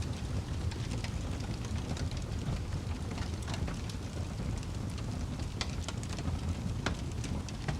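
Wood fire crackling in a fireplace: a steady low rumble of the flames with scattered sharp pops and snaps, a few louder ones about five and a half and seven seconds in.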